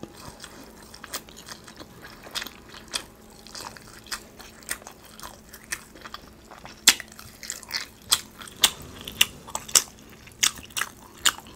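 A person chewing a mouthful of food with the mouth closed, close to a microphone. It comes as irregular mouth clicks, a few a second, growing louder and more frequent in the second half.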